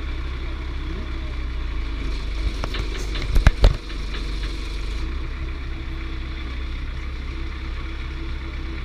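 A heavy vehicle's engine idling steadily, with a quick cluster of sharp knocks or clanks about three seconds in, louder than the engine.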